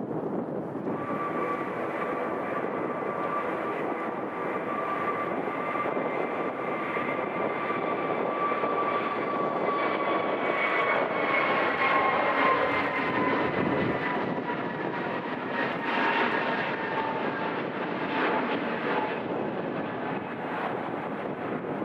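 Jet airliner's engines, a steady rush with a high whine that slowly falls in pitch from about halfway through as the aircraft passes.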